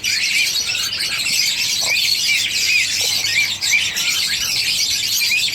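A flock of small cage birds chirping and chattering over one another without a break, with many short high notes overlapping.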